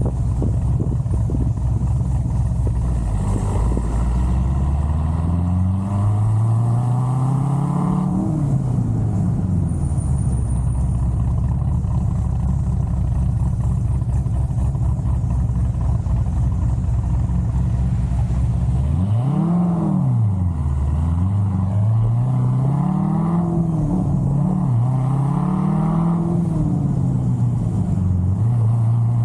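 Chevrolet Corvette C6 Z06's 7.0-litre LS7 V8 with a big aftermarket camshaft, idling and being revved. A few seconds in it climbs in pitch and drops back to a steady idle, then about two-thirds through it is blipped several times in quick succession before settling back to idle.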